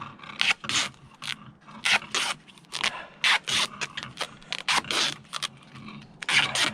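Irregular run of short scraping and rasping handling noises while a dip net is being rigged by hand, a dozen or so quick strokes with brief gaps between them.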